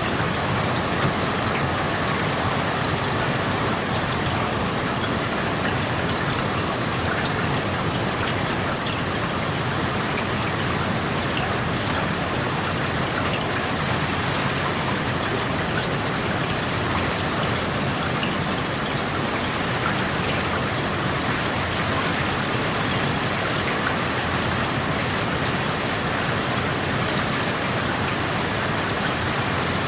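Steady rain heard through an open window, a constant even hiss with scattered small drop ticks.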